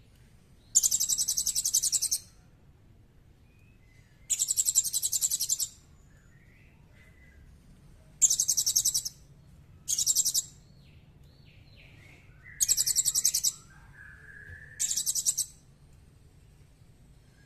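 Small songbird singing: six sharp, high-pitched rapid trills, each lasting about a second, separated by softer slurred chirps.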